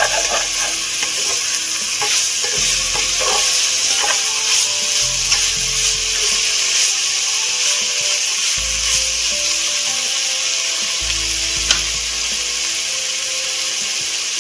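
Food sizzling as it fries, with stirring sounds and one sharp click about two-thirds of the way through.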